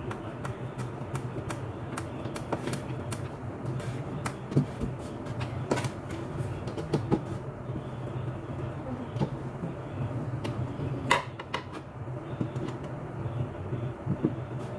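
Irregular light clicks and knocks of parts being handled, with a cluster of sharper clicks about 11 seconds in, over a steady low hum.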